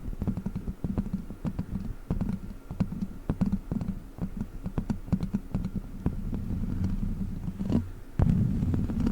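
Witch-finger toy fingertips tapping and scratching close to the microphone: a fast, uneven run of small clicks over a low rumbling, growing louder and denser near the end.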